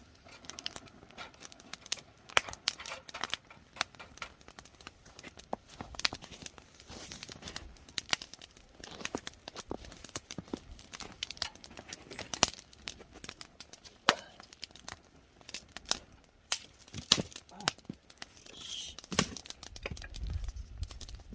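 Wood fire crackling and popping with irregular sharp snaps, as oysters roast in their shells over it. Near the end a low wind rumble comes up on the microphone.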